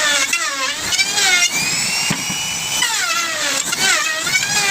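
Electric woodworking power tool running with a high motor whine, its pitch dropping and climbing back several times as the blade or cutter is loaded by the wood and then freed.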